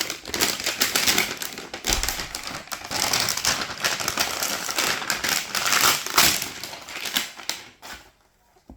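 Toy packaging being opened by hand: a dense run of crinkling, crackling and clicking that stops about a second before the end.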